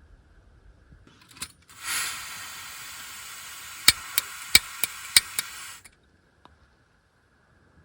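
Portable butane gas heater: gas hissing from the burner while the piezo igniter clicks about six times in quick succession. The hiss cuts off suddenly near the end.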